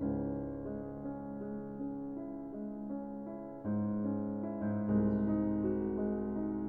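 Background piano music, soft chords changing every second or so, with fuller chords coming in about halfway through.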